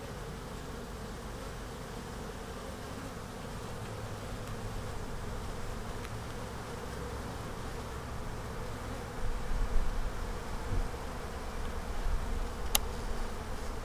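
Honeybees buzzing in a steady hum over an open hive and a frame held out of it. About two-thirds of the way in a low rumble joins it, and a single sharp click sounds near the end.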